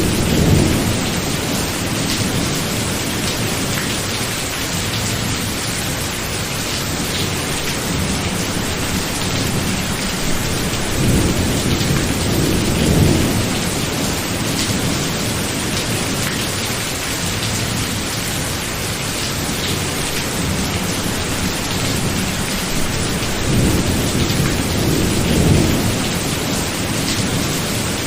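Steady heavy rain from a thunderstorm, with thunder rumbling three times, a low roll that swells and fades over a few seconds each time.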